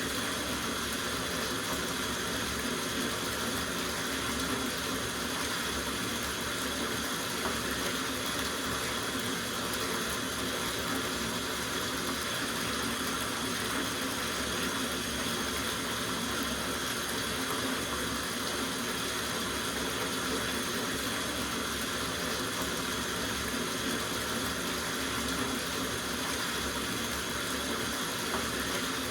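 Water running steadily from a tap into a soaking bathtub, an even unbroken rush.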